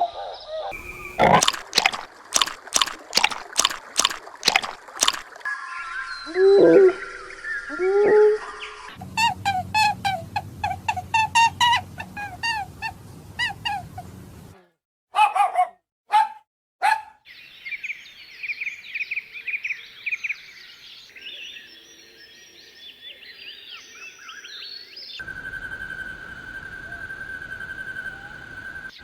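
A string of different animal calls cut one after another: a rapid run of sharp calls, two calls that rise and fall in pitch, a long run of quick repeated calls, then chirping birds, and near the end a steady high tone over a hiss.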